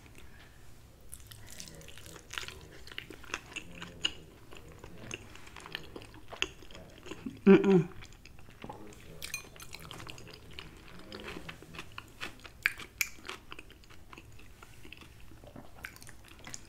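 Close-miked chewing of a mouthful of meatloaf: soft, wet smacking and small clicks of the mouth. One short voiced sound, like a hum, about seven and a half seconds in.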